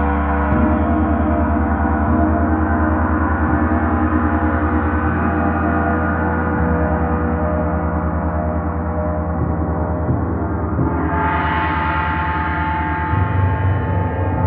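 Gong played in a sustained, shimmering wash of many overlapping tones with a pulsing low hum, swelling brighter about eleven seconds in.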